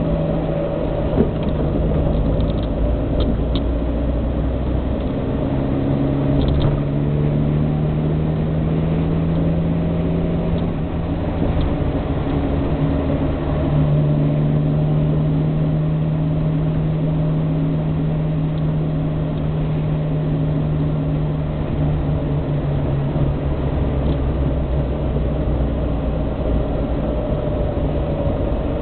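Austin A40 Farina's BMC A-series four-cylinder engine running on the move, heard from inside the car over low road rumble. Its note holds steady for long stretches and shifts in pitch a few times. A single sharp click comes about a second in.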